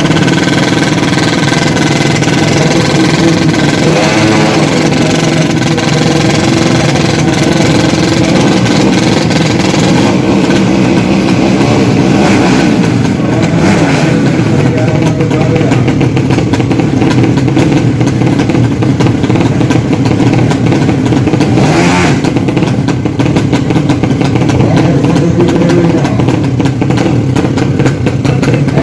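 Drag-racing motorcycle engines running loudly and revving, the pitch rising and falling several times.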